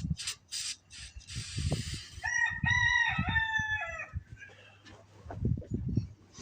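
A rooster crowing once, a crow of about two seconds that starts about two seconds in, just after a short hiss of aerosol carb cleaner being sprayed.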